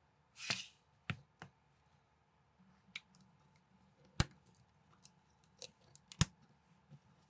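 Plastic building bricks clicking and snapping together, about seven sharp separate clicks at an irregular pace, with a short rustle of pieces about half a second in.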